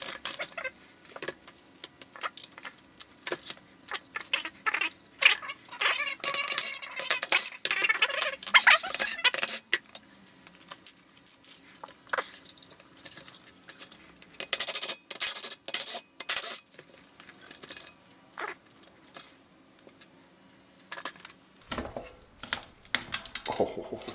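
Metal hand tools and engine parts clinking and rattling on a workbench during a small-engine teardown: scattered sharp clicks, with busier runs of clatter around a quarter and two thirds of the way through.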